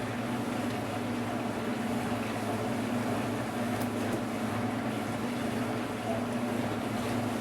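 Steady low mechanical hum with a faint click about four seconds in.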